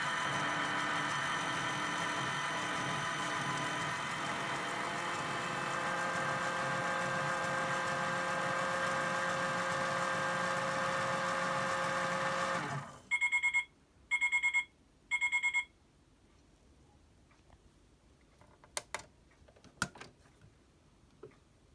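Toy Hoover Six Saver 1200 washing machine's small electric motor turning the drum with a steady whine, which stops about thirteen seconds in. Three short electronic beeps follow, then a few faint clicks.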